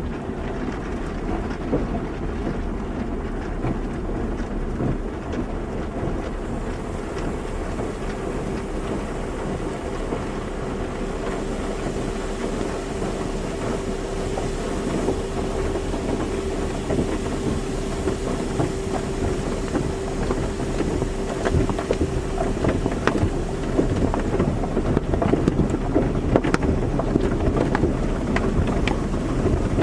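Car wash running: a steady rush of water spray with a deep machinery rumble. A steady hum comes in about eight seconds in and fades out past the middle, and sharp spattering ticks grow more frequent near the end.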